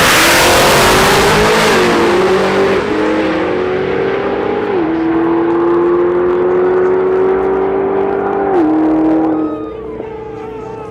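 A drag-racing car launches hard at full throttle and accelerates down the strip, its engine note stepping down with three upshifts. The engine sound falls away sharply about nine and a half seconds in.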